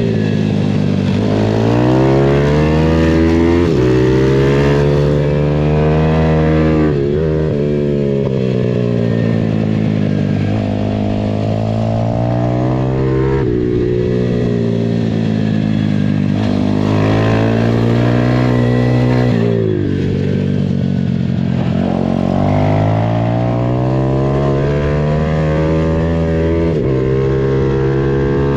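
Pitbike engine under hard riding, its pitch climbing as it accelerates and then dropping sharply, again and again.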